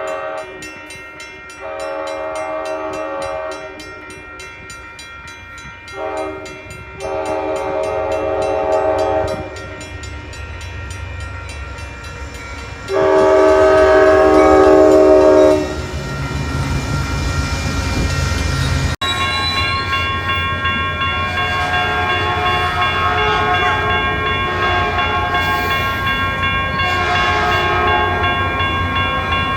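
Caltrain locomotive air horn sounding a series of blasts: long, long, short, long, in the pattern of a grade-crossing signal, then a louder long blast. After that the train runs on with a steady engine rumble and a held tone.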